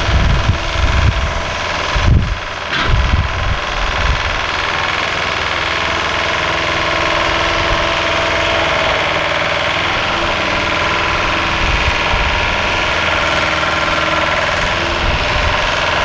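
A large engine running steadily, with uneven low thumps in the first few seconds.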